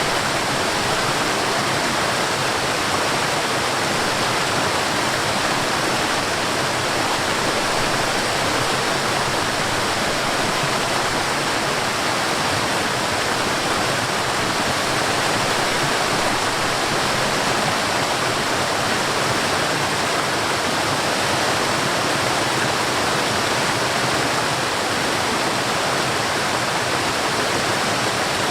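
Forest waterfall: water falling and rushing, a loud, steady, even noise that does not change.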